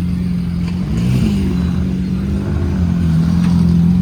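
Lamborghini Aventador's V12 engine idling steadily while warming up after a start, with a brief slight rise and fall in pitch about a second in.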